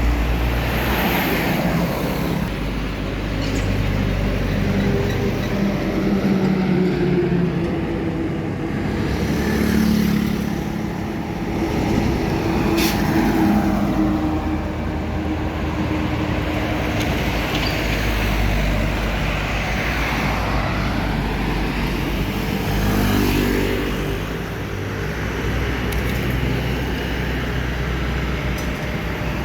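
Road traffic: cars and trucks driving past one after another, engine and tyre noise swelling and fading with each pass, with one short sharp click near the middle.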